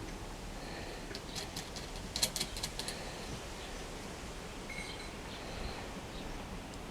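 A quick run of light metallic clicks and taps, small metal parts such as a washer and nut being handled and fitted, bunched between about one and three seconds in.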